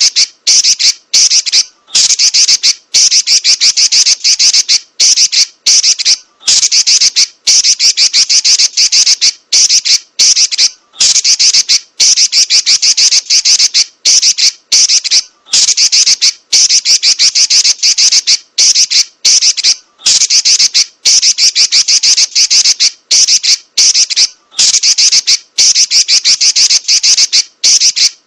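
Female Pekin robin (red-billed leiothrix) giving its rapid, harsh, high chattering trill, the "nyerecet" call, in burst after burst about a second long with brief pauses between.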